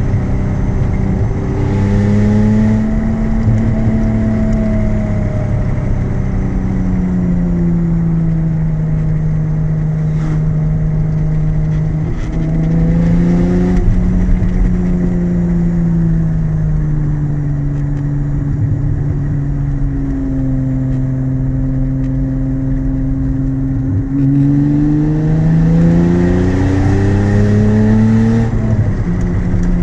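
Mid-mounted Toyota 1MZ-FE V6 of an MR2 SW20, heard from inside the cabin while driving. The engine note rises and falls several times as the car accelerates and eases off. Near the end a long climb in revs is cut by a gear change, and the revs build again.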